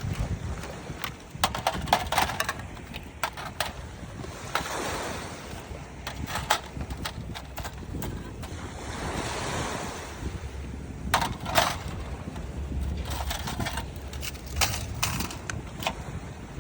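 Waves washing on the shore with wind on the microphone, and scattered sharp clinks and knocks as a folding stainless-steel fire pit is put together.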